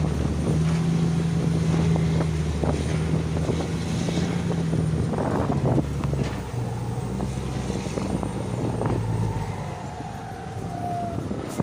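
Diesel truck engine running with a loud exhaust note on a stock, un-remapped tune. Its pitch holds steady, then drops lower about six seconds in and eases off near the end.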